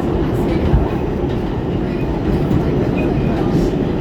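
An R46 subway train running at steady speed: a continuous rumble of wheels and running gear on the rails, with a few faint, short high squeaks.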